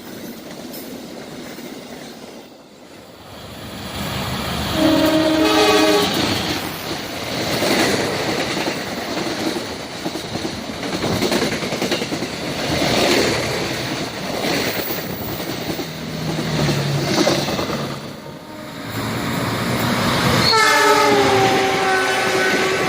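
A train passing at speed: a horn sounds about five seconds in, then the loud rush and clatter of the cars going by in repeated swells. Near the end another horn starts, its pitch sliding slightly down as it holds.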